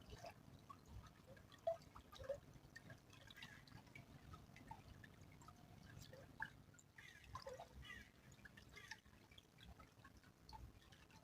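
Faint small stream trickling and dripping, with many short scattered plinks of water at varied pitches.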